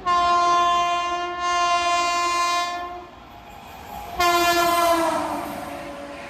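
Electric locomotive's horn sounding two long blasts, the first lasting about three seconds and the second starting about four seconds in. The second blast drops slightly in pitch as it fades into the rushing noise of the fast-approaching train.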